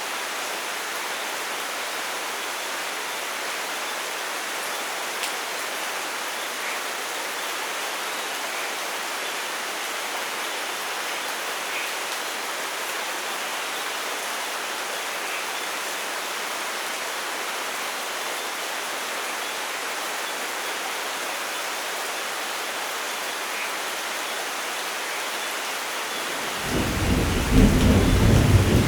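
Steady rain, a even hiss with occasional faint drop ticks. Near the end a loud, low rumble of thunder begins.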